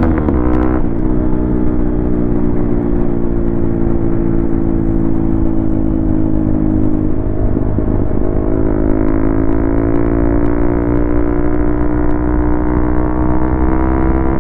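Modified Hero Xpulse 200's single-cylinder engine running at steady revs while under way. The engine note breaks briefly about half a second in and again around eight seconds, then climbs slowly.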